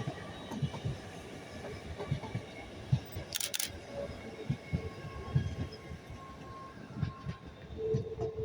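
TransPennine Express Class 802 train moving through the station, its wheels giving an uneven series of low knocks over rail joints and pointwork. Two sharp camera shutter clicks come about three and a half seconds in.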